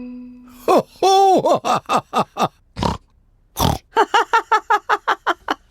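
Cartoon pig characters snorting and grunting, then breaking into a quick run of laughter near the end.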